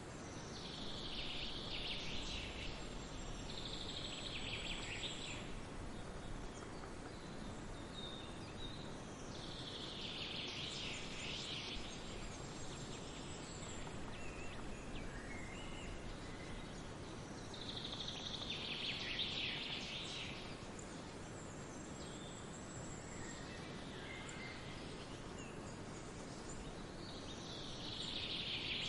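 Songbirds chirping in short bursts of song every several seconds, over a steady outdoor background hiss.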